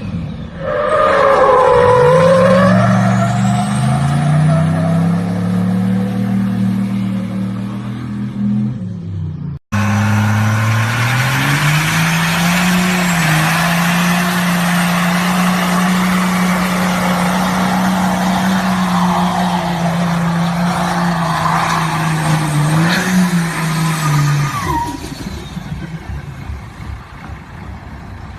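Truck engine revving up and held at steady high revs, then a sudden cut to a second steady high-rev engine note with a loud hiss over it, which fades out near the end.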